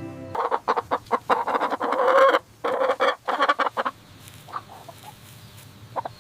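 Bursts of clucking animal calls, dense for the first four seconds, then fainter and more scattered.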